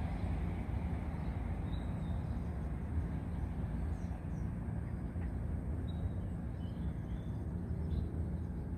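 A few brief, faint bird chirps over a steady low rumble of city background noise.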